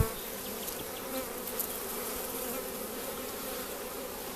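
Honeybees buzzing in a steady hum around an open hive, with a brief bump right at the start.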